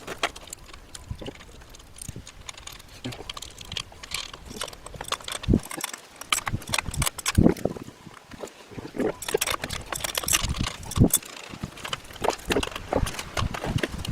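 Irregular clicks, knocks and clinks of metal parts being handled and fitted during work on an e-bike hub motor, with a few heavier knocks spread through.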